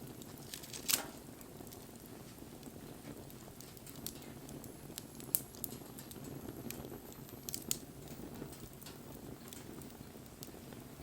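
Wood bonfire burning with a steady low rush of flame and a soft crackle, broken by a few sharp pops; the loudest comes about a second in.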